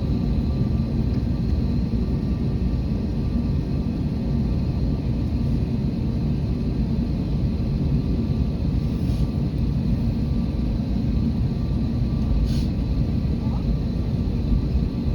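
Steady low rumble of an Airbus A321neo airliner, with a faint steady high tone above it.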